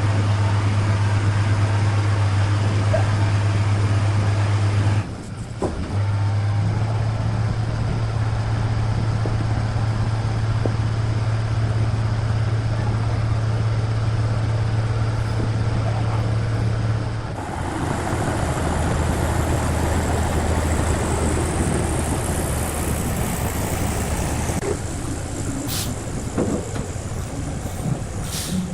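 A heavy engine running steadily with a deep hum. About seventeen seconds in, the hum drops lower and grows rougher.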